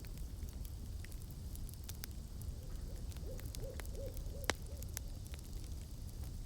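Campfire crackling and popping over a low rumble, with one sharp pop about four and a half seconds in. From about two and a half seconds in, an owl gives a quick series of about five short hoots.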